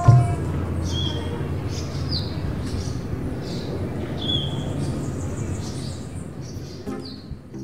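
Birds chirping, short high calls about once a second, over a steady background hiss and low hum. Plucked string music comes in near the end.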